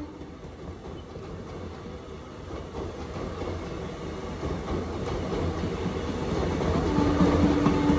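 Indian Railways train running on the track, its rumble and wheel clatter growing louder as it comes closer. A steady tone starts near the end.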